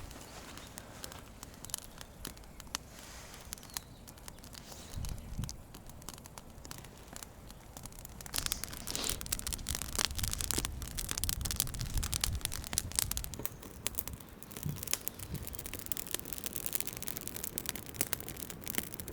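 Small campfire of dry twigs catching and crackling, the crackles growing thicker and louder after about eight seconds as the fire takes hold. Low rumbles come and go in the middle.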